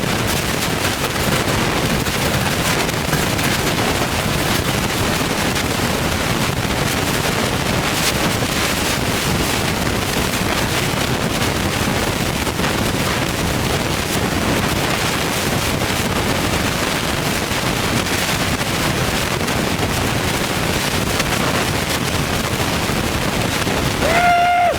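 Turbocharged Ford Boss 302 V8 running steadily at idle, loud and dense with no revving. A short high tone sounds near the end.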